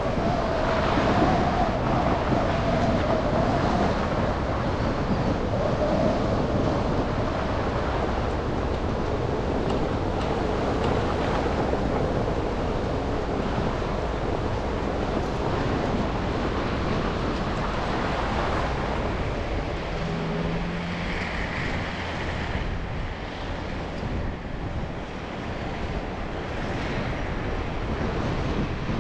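Steady road and traffic noise of a car driving through city streets after a snowstorm: a constant rush of tyres on wet, slushy pavement mixed with engine hum and passing traffic, with a few brief faint tones from other vehicles.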